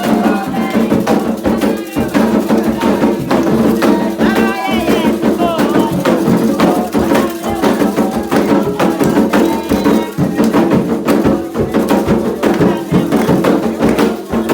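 Afro-Brazilian ritual music: hand drums, rattles and a struck wood or bell part playing a fast, steady rhythm, with voices singing a chant over it.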